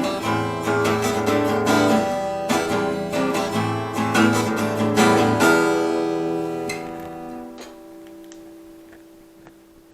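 Acoustic guitar strumming the closing chords of the song, then a final chord left to ring and slowly fade away over the last few seconds.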